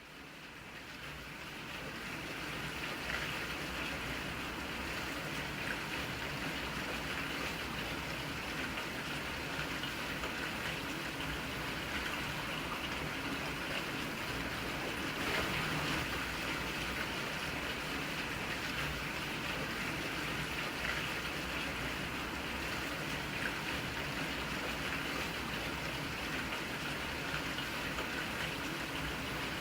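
Steady rainfall, an even hiss and patter of rain that fades in over the first few seconds and then holds level.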